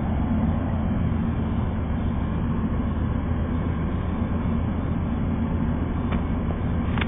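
Steady low rumble from a standing Amtrak passenger train, with two faint clicks near the end.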